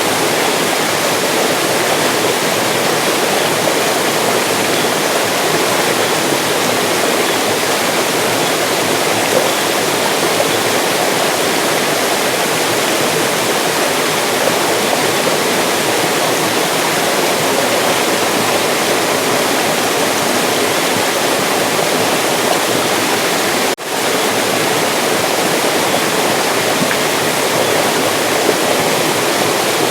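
Mountain stream flowing: a steady, full rush of water, with a momentary dropout about three-quarters of the way through.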